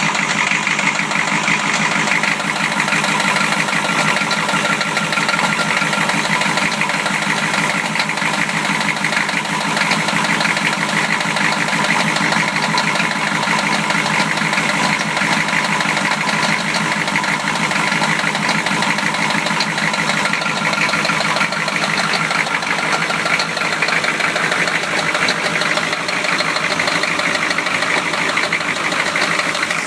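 1993 Chevrolet engine running steadily, with a fast, even knocking throughout: rod knock, the sign of a worn connecting-rod bearing.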